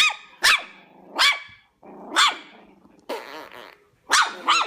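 Chihuahua barking in about six short, sharp, high-pitched yaps, the last two in quick succession near the end, with a brief hissy noise a little past the middle.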